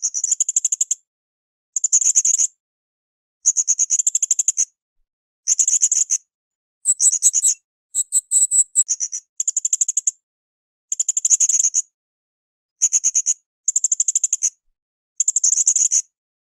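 Blue-crowned hanging parrot (srindit) calling in short, high-pitched bursts of rapid stuttering chirps, about a dozen phrases each under a second long. The phrases are separated by dead silence, as in an edited tutoring loop. A few phrases in the middle are pitched a little higher.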